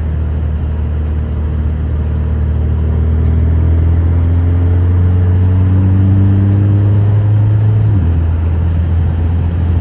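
2017 Alfa Romeo Giulia with a muffler delete accelerating, its engine note rising steadily for several seconds, then dropping suddenly near the end as it shifts up a gear and settling into a steady drone.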